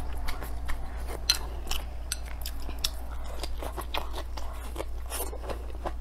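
Close-up eating sounds: a person biting and chewing long green chili peppers with rice, a rapid string of crisp crunches and mouth clicks, over a steady low hum.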